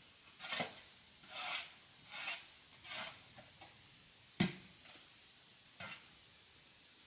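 Four short scraping or brushing strokes about a second apart, then a sharp knock and one more short stroke.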